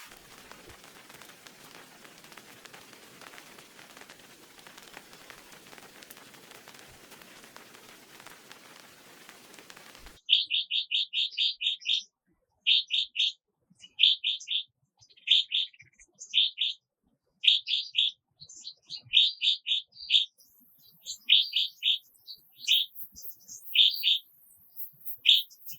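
Steady hiss of rain for about ten seconds, then it cuts off suddenly and a bird sings: loud bursts of quick, high chirps repeated every second or so with short gaps between.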